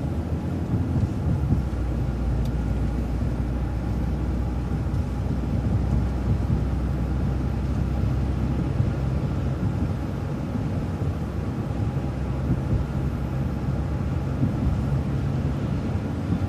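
Transit bus driving along, its engine giving a steady low drone over road noise.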